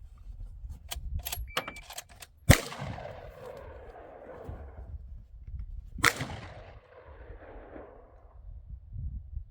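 Two gunshots about three and a half seconds apart, each followed by a long echo dying away over about two seconds. A few light clicks come before the first shot, over a low rumble.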